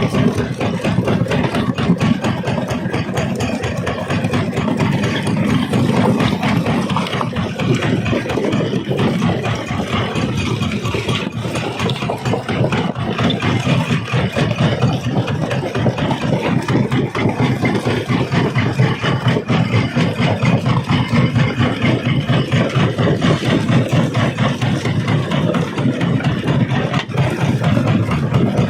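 Quarry rock crusher running: a steady, unbroken mechanical drone with dense, rapid clattering throughout.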